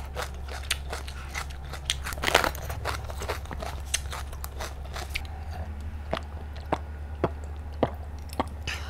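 Close-miked eating: crunchy bites and chewing with many small wet clicks of the mouth, the loudest crunching about two seconds in.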